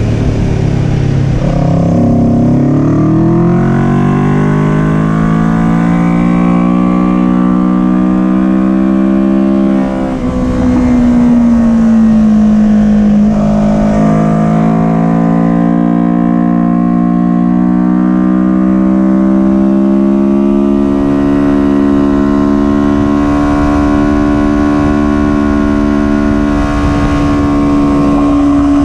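Kawasaki Ninja 400 parallel-twin engine under hard racing load, its pitch rising and falling with the revs. It drops and climbs again about two seconds in, dips briefly at about ten seconds, then climbs steadily and holds high through the second half.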